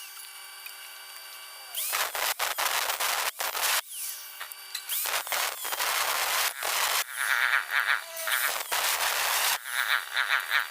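Electric drill motor driving a homemade earth auger: a steady whine in places, broken by rough, irregular grinding and scraping noise as it works.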